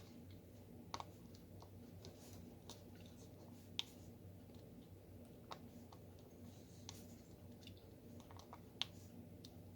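Faint, irregular light clicks and taps, one every second or two, from a diamond painting pen picking up and pressing resin drills onto the canvas, over a low steady room hum.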